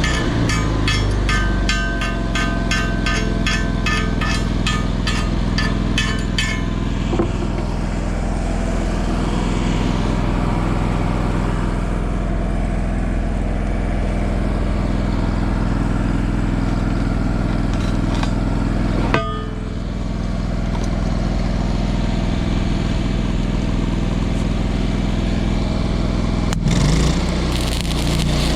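Engine-driven welding generator running steadily. For the first six seconds there is a rapid, even metallic tapping, about eight taps a second; near the end the engine note changes.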